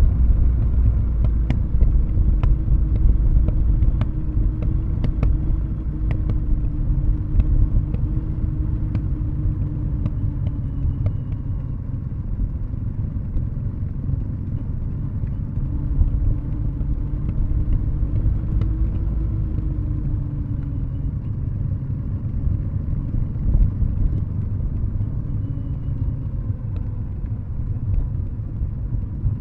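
Kawasaki W650's air-cooled parallel-twin engine running at low revs through Nasert Trad mufflers, the bike coasting downhill on a closed throttle. The steady low exhaust rumble drifts a little in pitch, with occasional light clicks.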